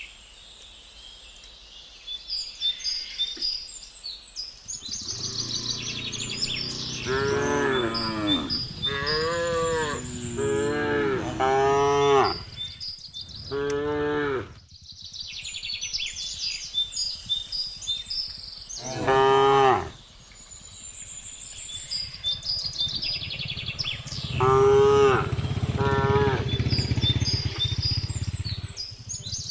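Cattle mooing: several long moos in quick succession, one more about two-thirds of the way through and a pair near the end. The cows are calling to the herd. High chirping carries on in the background throughout.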